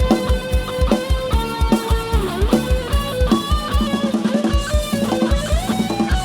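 Isan dance-band music played live through a rot hae sound-truck system, in an instrumental stretch without singing. A steady kick drum beats about four times a second under a plucked-string and keyboard-like melody.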